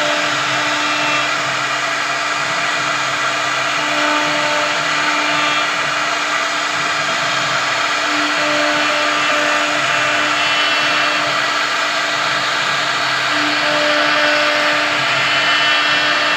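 CNC router spindle cutting wood: a steady, loud whine and hiss from the spinning bit. A lower tone comes and goes every few seconds.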